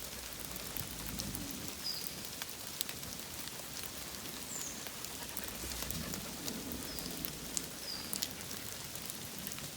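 Steady rain, with many sharp ticks of drops landing close by. A few short, high, falling chirps sound now and then.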